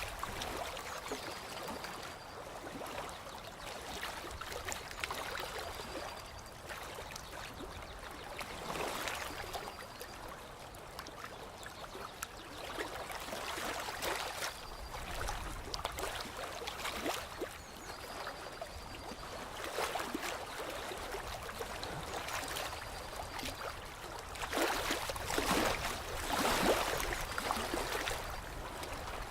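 Water lapping and trickling in uneven swells, with louder splashy surges near the end.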